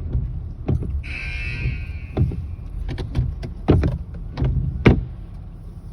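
Car-wash blower dryers running with a steady low rumble, with several sharp knocks and a brief hiss about a second in.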